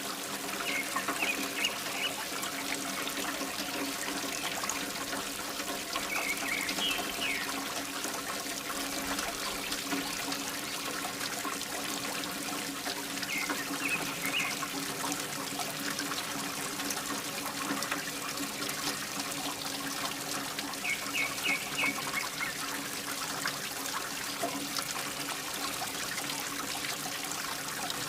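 Water pouring and trickling steadily from a mini water pump's outlet, with the pump's steady motor hum underneath. Short high chirps come in small groups a handful of times.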